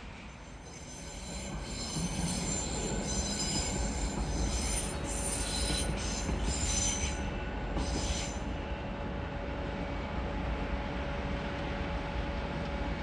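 A train moving on the rails with its wheels squealing in several high, steady tones, starting about a second and a half in and stopping after about eight seconds, over a low rumble.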